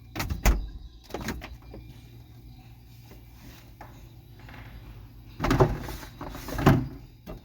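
Refrigerator door being opened and shut, with thuds and rattles near the start and again about five and a half seconds in.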